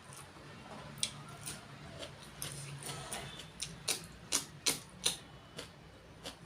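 Close-up eating sounds from pork being eaten: irregular wet clicks and smacks of chewing, loudest and quickest about halfway through.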